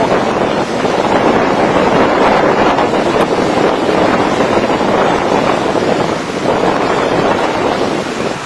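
Fast-flowing river in flood, its water rushing in a loud, steady, even noise.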